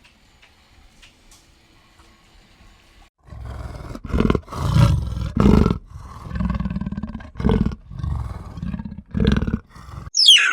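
A wild animal growling: a run of loud, low growls in repeated bursts with short gaps, starting about three seconds in after a few faint ticks. Near the end a short, high call falls sharply in pitch.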